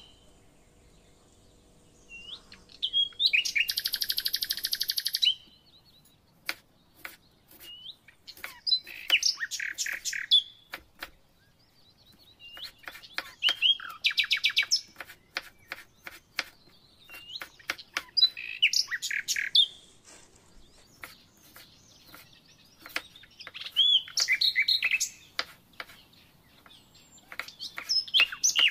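A songbird singing, with loud trilled phrases that come back every four to five seconds. In between, a kitchen knife clicks through cucumber onto a bamboo cutting board in quick strokes.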